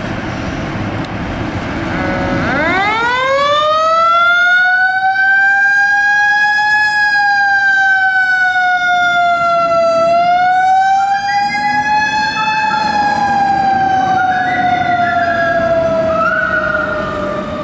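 Fire truck siren sweeping up steeply about two and a half seconds in, then holding a high wail that dips and climbs again partway through before slowly falling. A second, stepping siren tone joins it in the second half, and a low truck rumble runs beneath before the siren rises.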